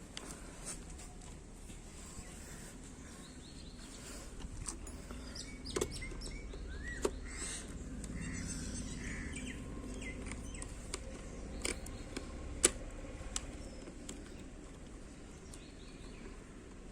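Scattered clicks and knocks from a GoPro mount and helmet being handled, the sharpest about two-thirds of the way through, over a steady low background noise with a few faint bird chirps.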